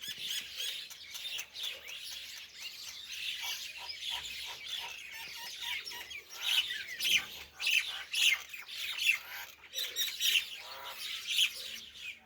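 Several birds chirping and calling over one another in dense, quick chirps, with louder separate calls standing out in the second half.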